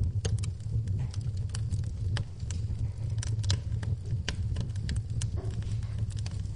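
Wood fire in a fireplace crackling, with many sharp, irregular pops and snaps over a steady low rumble of the burning fire.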